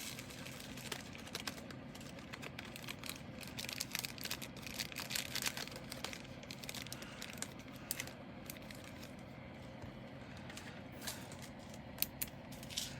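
Small plastic bags of diamond painting drills crinkling and rustling as they are handled and put into a bigger bag, with many small irregular clicks.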